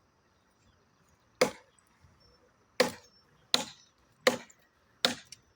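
Machete blade chopping into a log of hard pau-ferro wood: five sharp strikes, the last four coming quickly about three-quarters of a second apart.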